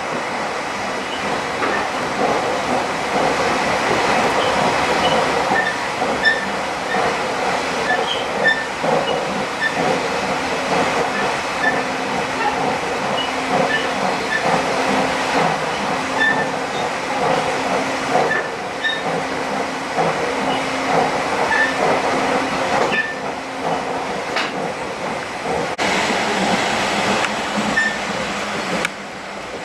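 Steady running noise inside a moving electric commuter train car, the wheels rolling on the rails. A low steady hum holds for a stretch in the middle, and small high ticks and rattles are scattered throughout.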